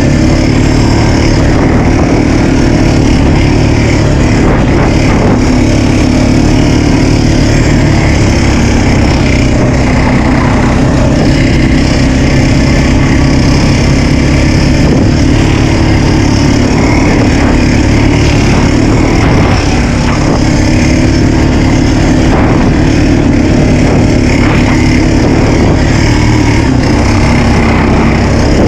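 Small off-road vehicle engine running steadily and loudly at a fairly constant speed, with a continuous drone and no big revs.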